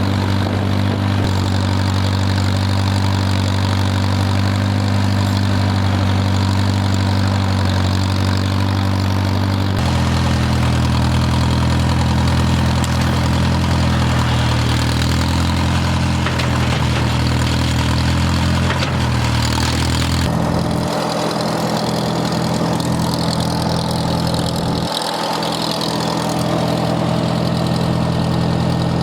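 Farmall M tractor engine running steadily at a low speed, its note shifting abruptly a few times.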